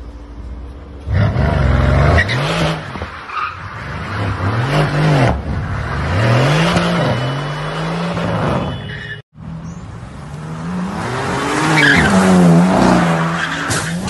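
A car engine revved hard up and down again and again, with tyres squealing and skidding. The sound breaks off for a moment about two-thirds of the way through, then the revving and squealing carry on.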